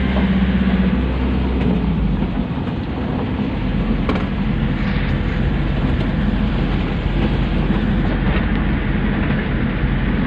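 Pick-up dump truck running as it is driven: a steady rumble of engine and road noise, with a humming engine note that eases off a second or two in.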